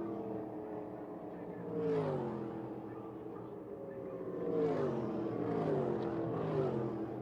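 Stock car race engines running hard, the engine note dropping in pitch about two seconds in and several more times in the second half.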